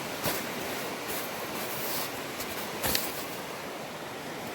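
Steady rushing of a creek's flowing water, with a few brief crunches on top, the loudest about three seconds in.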